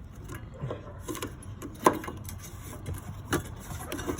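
Scattered clicks and light knocks of hands working a plastic retaining clip off a fuel line connector at the fuel pump, the sharpest click about two seconds in, over a low steady rumble.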